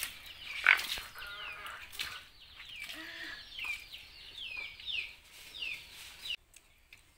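A bird's short chirps, each falling in pitch, repeated about twice a second, over water splashing as a toddler is bathed from a bucket, with one loud splash under a second in. The sound cuts off suddenly near the end.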